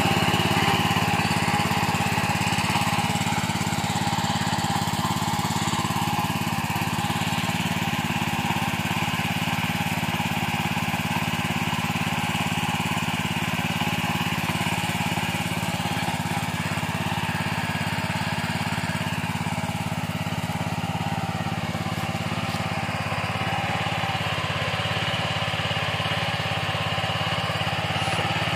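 Small single-cylinder diesel engine of a four-wheel power weeder running steadily at an even speed.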